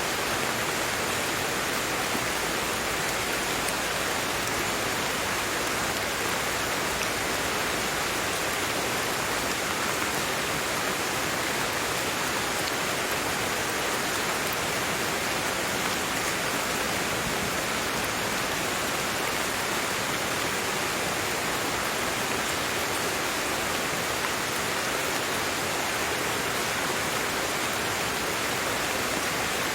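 Steady rain, an even continuous hiss with no breaks or separate drops standing out.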